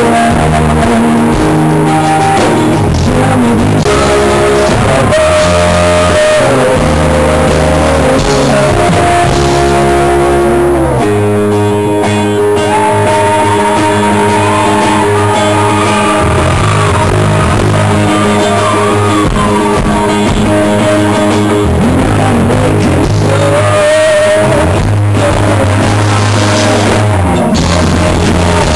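Live rock band playing loudly, led by guitars, with a steady pulse and sustained chords.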